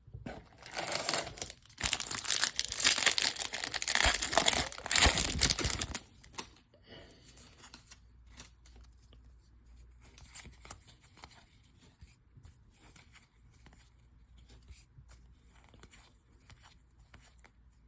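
A 2021 Topps Series 2 baseball card pack's wrapper being torn open and crinkled for about six seconds, then faint rustling of cards being handled.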